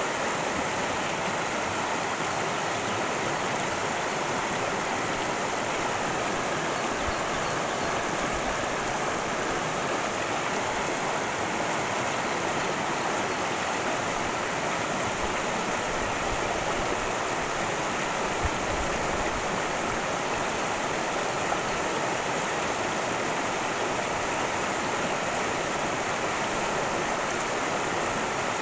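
Cascading stream running over rocks: a steady, even rush of water.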